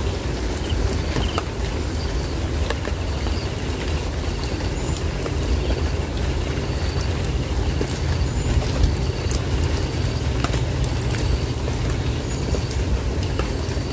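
Steady rain falling on the plants around the nest, with a deep low rumble and scattered sharp ticks of drops hitting nearby.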